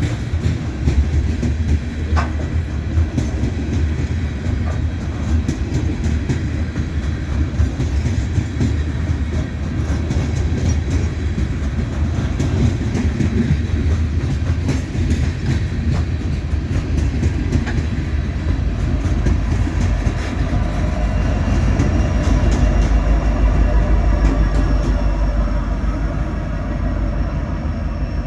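Freight train cars rolling past, wheels clicking steadily over the rails. A deeper rumble builds about twenty seconds in and grows louder.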